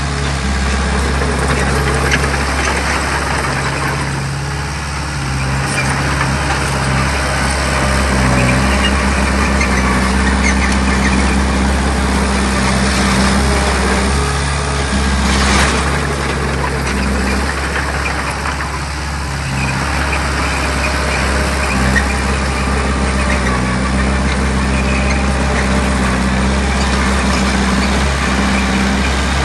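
Bulldozer's diesel engine running hard over a dense clattering and scraping noise. The engine note steps up and down several times.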